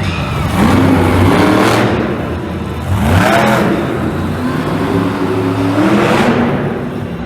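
Monster truck engine revving up and down several times, its pitch rising and falling in repeated sweeps.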